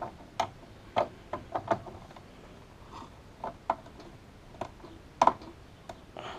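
Irregular sharp plastic clicks and knocks from a PC's 24-pin ATX power cable and connector being handled and pushed onto the motherboard, about ten in all, the loudest about five seconds in.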